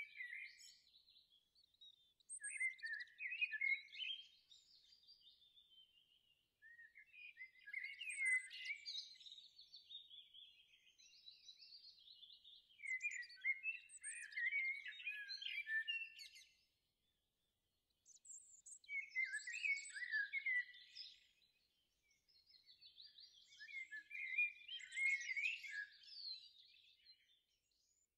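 Songbird singing in bouts of rapid chirping notes, each a few seconds long, about five of them separated by short pauses.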